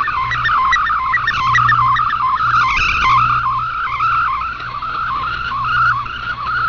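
Digital data signal from a Shortwave Radiogram broadcast received over shortwave radio: a warbling run of tones that jump rapidly from pitch to pitch within a narrow band. This is a multi-tone (MFSK-type) text mode being sent, with a low mains hum underneath.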